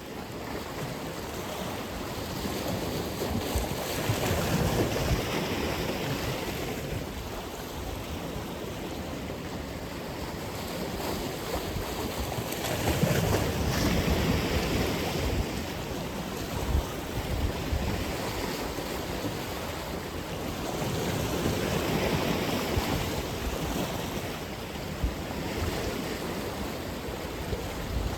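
Ocean surf: waves breaking and washing ashore in a continuous roar, swelling louder about every eight seconds as each set comes in. A little wind on the microphone runs under it.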